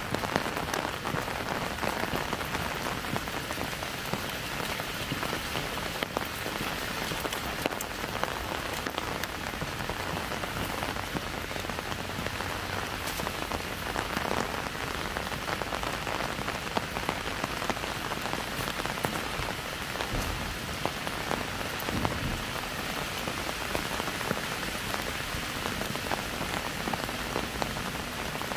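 Steady light rain, many individual drops pattering and clicking on an umbrella held overhead, over the hiss of rain on wet pavement.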